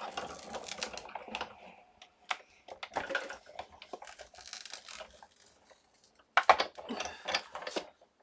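Scrap cardstock being handled and fitted as a shim into a die-cutting platform: irregular paper rustling and scraping with light clicks, and a sharper cluster of clicks about six and a half seconds in.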